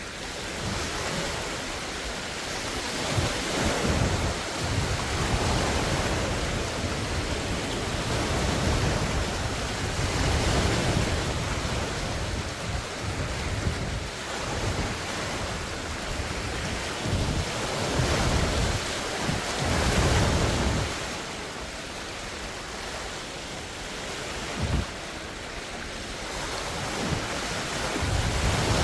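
Large wind-driven lake waves washing and breaking against the shore, coming in irregular surges every few seconds, with strong wind gusting over the phone's microphone.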